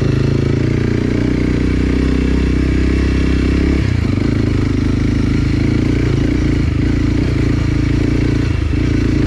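Enduro motorcycle engine running steadily while riding, with wind noise; the engine note changes about four seconds in.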